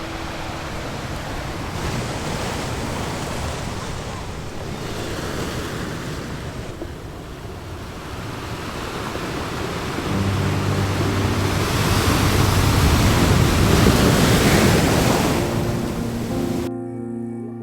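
Rushing wash of surf that swells to its loudest about two-thirds of the way through, with soft sustained music notes underneath, then cuts off suddenly near the end.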